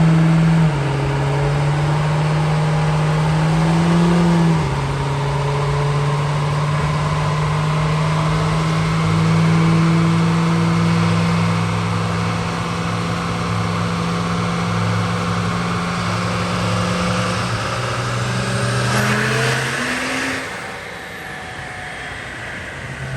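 Cummins diesel pickup engine run up on a chassis dyno, its pitch stepping down twice early on as the transmission shifts, then holding steady. Near the end it climbs into a loud rush and drops off suddenly about twenty seconds in.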